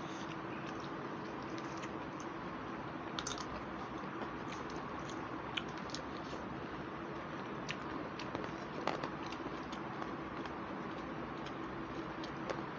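Close-up eating sounds of people eating rice and fish curry by hand: scattered soft chewing and lip-smacking clicks over a steady background hum.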